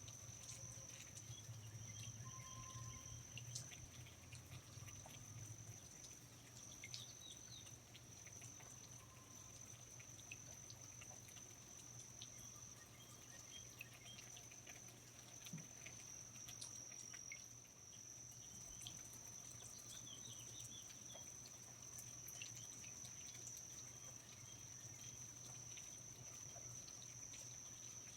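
Faint rainforest insects, crickets or similar, trilling in one steady high-pitched note, with scattered drips and small chirps over a low steady hum.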